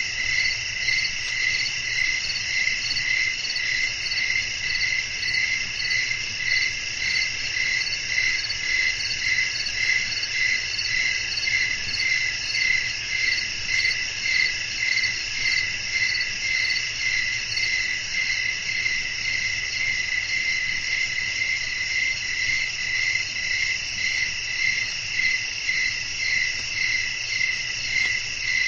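Night chorus of crickets chirping, a dense high steady trill with an even pulse about twice a second, over a faint low rumble.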